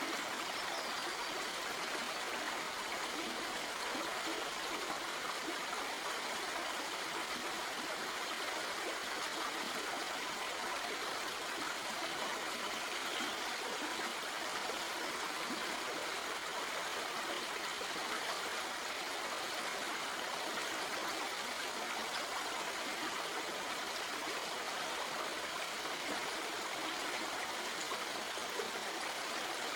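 Stream water flowing steadily over rocks, an even rushing babble with light trickling.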